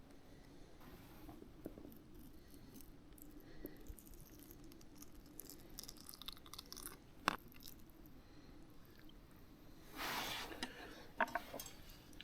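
A person chewing and eating cooked fish, with scattered small clicks, a sharp tick about seven seconds in and a brief rustle about ten seconds in.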